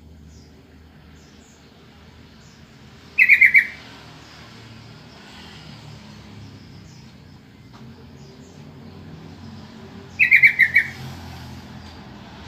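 Sooty-headed bulbul (trucukan) calling: two short bursts of four or five quick notes, about seven seconds apart, with faint higher chirps behind.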